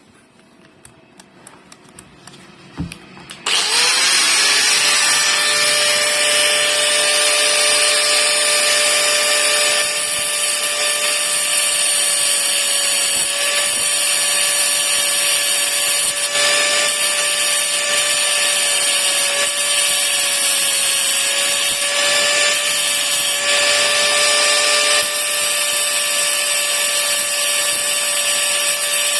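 Handheld electric power tool started about three and a half seconds in, quickly spinning up, then running steadily at high speed with a sustained whine over a loud hiss; a few light clicks of handling come before it.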